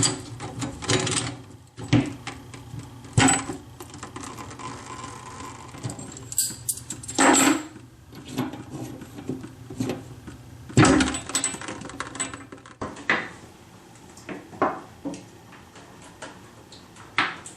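Irregular clinks and knocks of metal tools and faucet parts being handled while a bathroom faucet is worked loose from the sink, with a handful of louder knocks spread through.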